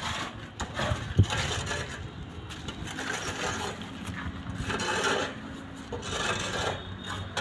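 Scraping and rubbing of hand work on a construction site, in uneven patches, with one sharp knock about a second in.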